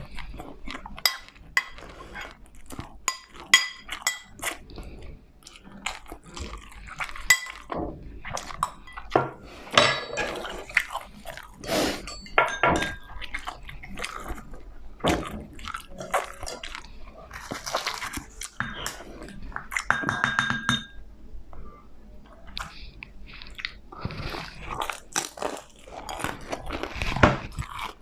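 Close-miked chewing and crunching of crispy food, with sharp clicks of chopsticks against the dishes.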